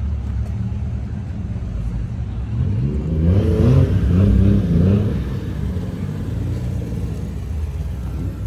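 A car engine's steady low rumble, revved up and down twice about three seconds in, the loudest part, then settling back to a steady rumble.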